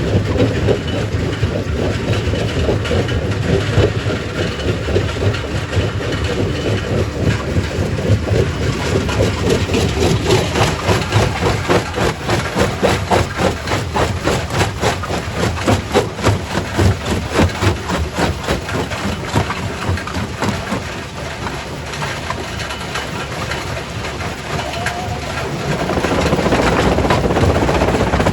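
Primary rock crusher at work in a quarry: a continuous clattering of rock being broken, over a steady heavy machine rumble. It grows louder near the end.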